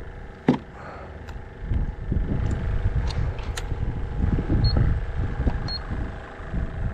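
Gusty wind rumbling on the microphone, with a faint steady hum underneath and several sharp clicks and knocks from handling.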